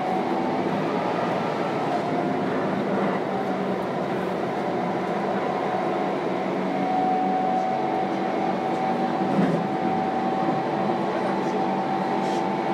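Keihan 8000 series electric train running: a steady rumble of wheels on rail with a steady whine from the drive.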